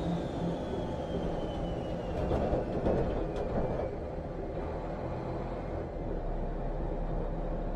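Racing vehicle engine noise: a steady low rumble with a thin high whine that falls slowly in pitch over the first four seconds or so, swelling briefly a couple of seconds in.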